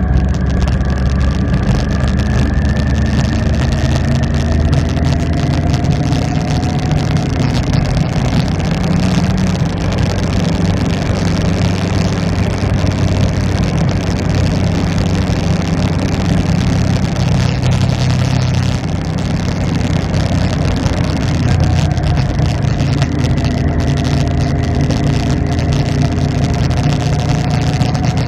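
Motorcycle engine running while riding, over a steady rush of noise; its pitch rises gently over the first few seconds and again near the end.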